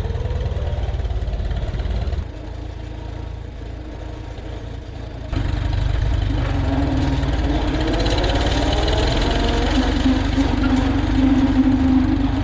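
Vintage farm tractor engine running with a steady, pulsing low rumble. The sound drops abruptly about two seconds in and jumps back up about five seconds in, as the shots change.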